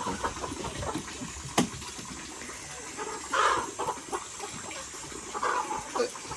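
Chickens clucking a few short times, with a single sharp knock about a second and a half in.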